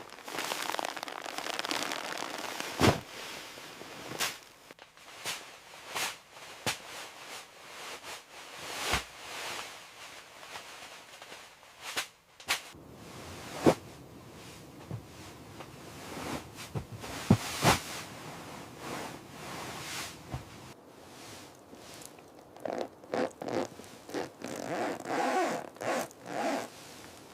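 Rough scraping and crunching, broken by scattered sharp knocks and clicks, as snow is cleared away.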